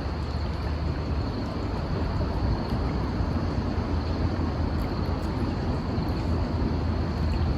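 Steady rushing of a flowing stream, with a faint steady high tone above it.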